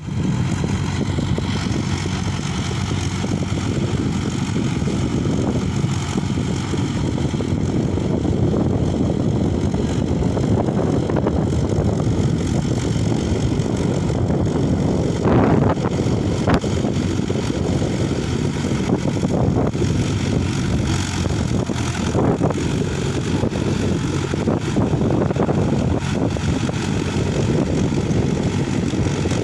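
Old Mahindra tractor's diesel engine running steadily, with a few brief knocks about halfway through.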